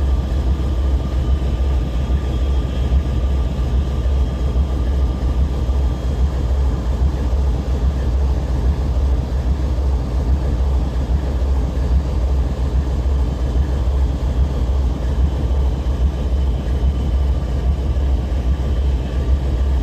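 Diesel-electric freight locomotive idling steadily at a standstill, a continuous deep rumble with a faint steady whine above it.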